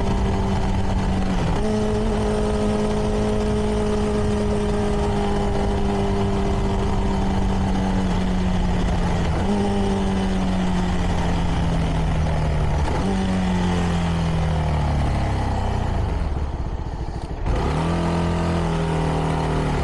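CFMoto 300NK single-cylinder engine through its stock exhaust, heard from the rider's helmet. The revs sink slowly and jump back up three times, as when shifting down while slowing. Near the end it briefly goes quieter, then picks up again.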